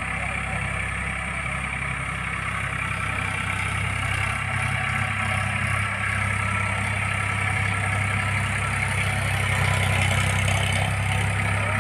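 Tractor engine running steadily with a low, even hum, growing slightly louder near the end.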